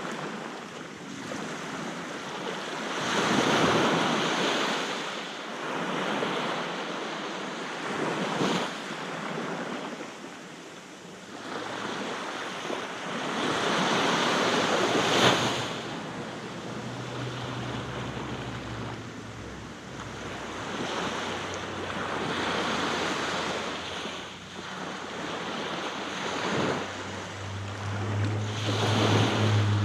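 Sea waves breaking on a beach, a surge of surf every few seconds with the wash running between, and wind on the microphone. A low steady hum comes in briefly midway and again near the end.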